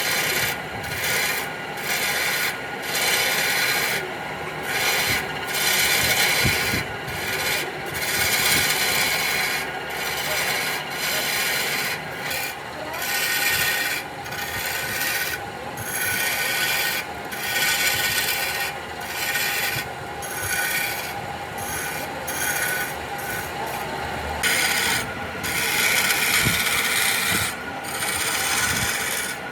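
Wood being abraded by hand in repeated rough rubbing strokes, roughly one a second, as in sanding or filing the wooden vase.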